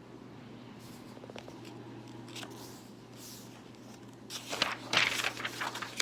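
Paper rustling as a picture book's page is turned and handled, a crackling rustle of under two seconds near the end, after a few faint handling clicks.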